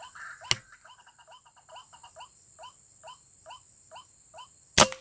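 A short rising animal call, repeated evenly about two to three times a second. There is a sharp click about half a second in, and a loud crack near the end.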